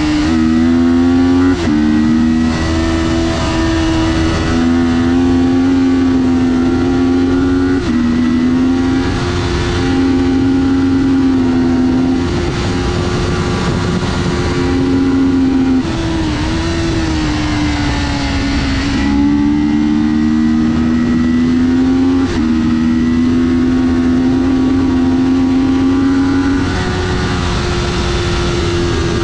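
Kawasaki Ninja 400's 399 cc parallel-twin engine running hard under racing, its pitch climbing steadily and then dropping sharply several times at upshifts. A rushing hiss swells and fades over it.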